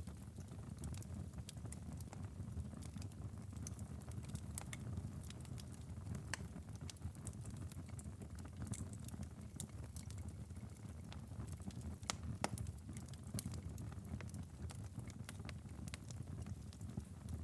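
Wood fire crackling in a fireplace: irregular sharp snaps and pops over a steady low rumble of the flames, with one louder pop about twelve seconds in.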